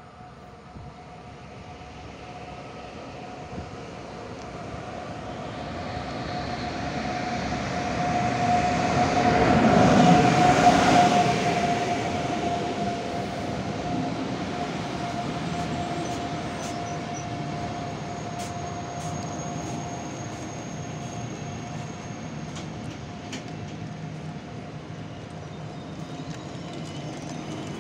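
Electric locomotive-hauled passenger train pulling into the platform: the rumble builds to its loudest as the locomotive passes about ten seconds in, then the coaches roll by more quietly as the train slows. A faint high squeal and light clicks join in the second half.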